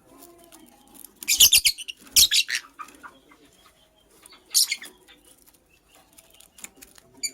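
Lovebird flapping its wings in three short bursts, about a second in, just after, and again around four and a half seconds in.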